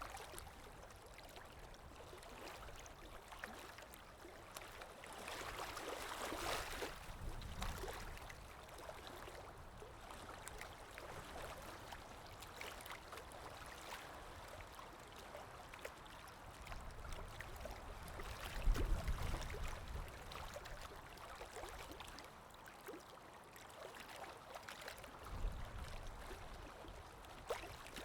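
River water rippling and trickling gently, with scattered small splashes and a couple of low rumbles about two-thirds of the way through and near the end.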